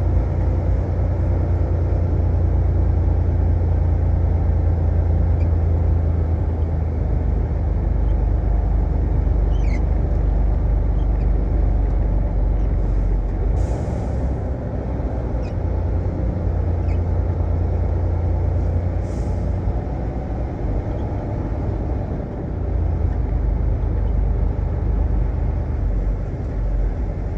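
Tractor-trailer's diesel engine running, a steady low rumble, with two short hisses of air around the middle.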